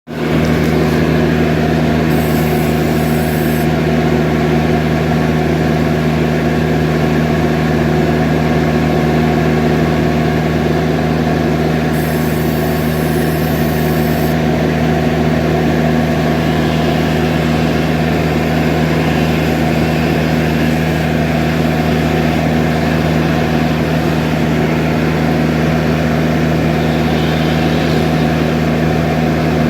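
Skid steer loader's engine running steadily at an even pitch, with two short high hisses, one a couple of seconds in and another about twelve seconds in.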